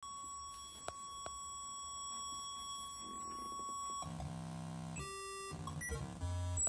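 Glitch synthesizer making electronic noise: a steady, thin beeping tone with two clicks about a second in, then an abrupt change at about four seconds to a string of harsh buzzing tones that jump to a new pitch every half second or so.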